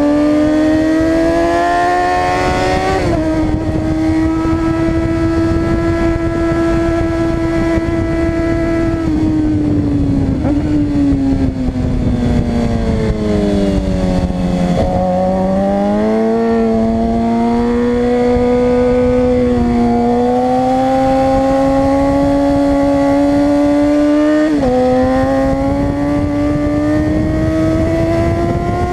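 Suzuki GSX-R 600 inline-four engine at high revs on track. The revs climb with a quick drop at an upshift about three seconds in, then fall off smoothly over several seconds as the bike slows, and build again with another upshift near the end. A steady rush of wind and road noise runs under the engine.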